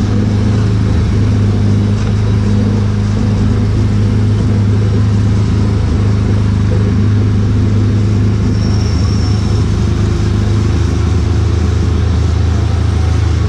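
Small gasoline engine of an Autopia ride car running steadily at cruising speed: a constant low drone, heard from the driver's seat.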